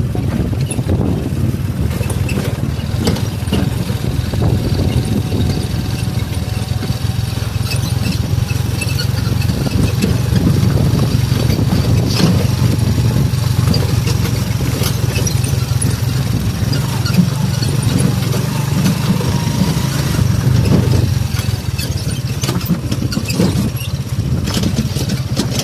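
Motorcycle engine running steadily at low speed over a rough, bumpy road, with scattered knocks and rattles from the bumps.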